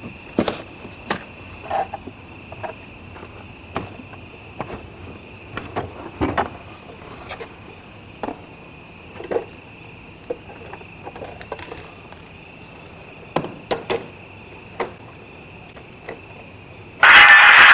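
Steady high-pitched insect chirring, with scattered faint clicks and knocks. Near the end a loud, harsh burst of sound lasting about a second and a half cuts in.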